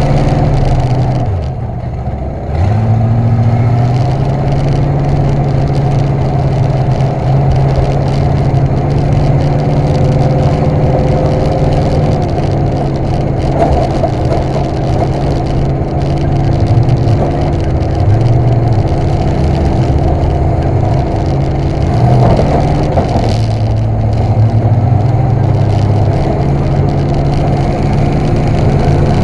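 A demolition derby car's engine running loud, heard from inside its stripped cabin. The engine speed sags about a second in, picks back up after about two and a half seconds, and shifts pitch a few more times.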